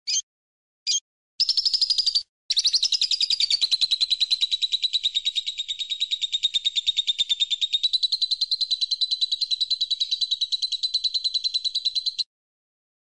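A recorded songbird calling: a few short, sharp chirps, then a long, rapid, high trill of fast repeated notes that dips slightly in pitch early on and runs for about ten seconds before stopping abruptly.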